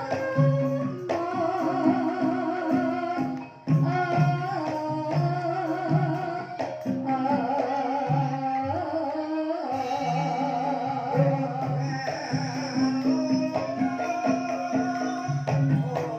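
Banyumasan gending in the ebeg style, played live by a gamelan ensemble with struck percussion, and a singer's wavering, vibrato-laden voice over it. The music drops away for a moment about three and a half seconds in, then carries on.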